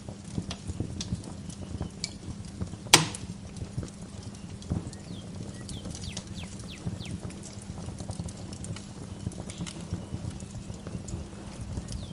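Wood fire crackling in a fireplace: irregular small clicks and snaps over a low steady rumble, with one loud sharp pop about three seconds in. Songbirds chirp in short falling notes around the middle and again near the end.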